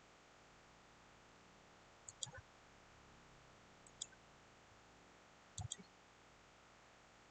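Computer mouse buttons clicking: a quick double click about two seconds in, a single click around four seconds, and another double click near the end, over a faint steady hiss.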